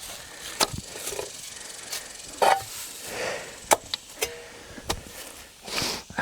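Shovel digging into dirt and roots: irregular sharp knocks of the blade with gritty scrapes in between.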